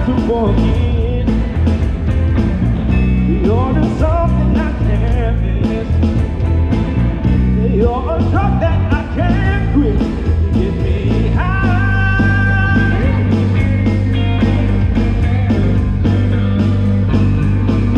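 A live band playing a song: a woman singing with sliding, melismatic phrases over electric guitar, bass and a drum kit keeping a steady beat.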